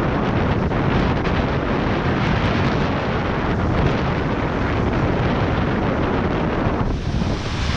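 Wind buffeting the microphone: a loud, steady, rumbling rush with no pauses.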